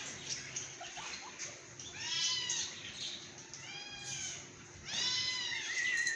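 Cat, likely a kitten, meowing repeatedly: several short rising-and-falling meows a second or so apart.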